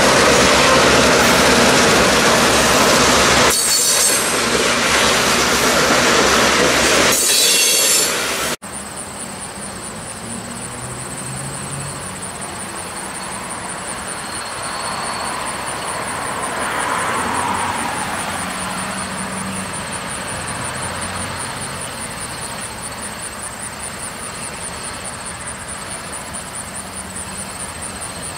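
A train rolling past close by, a loud steady rumble of wheels on rail with short high-pitched wheel squeals, which cuts off abruptly about eight seconds in. After the cut there is a much quieter stretch with a steady high-pitched buzz.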